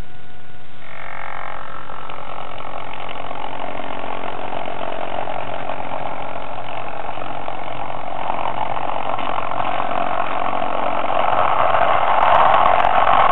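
Hornby model train running along its track, a steady mechanical running noise that grows louder over the last few seconds.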